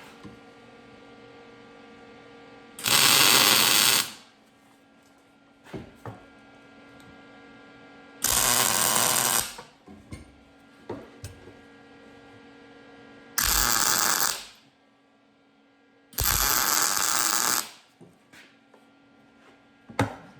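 Lincoln MIG 180 wire-feed welder laying four short tack welds, each a burst of arc crackle of a little over a second, with a steady hum between them.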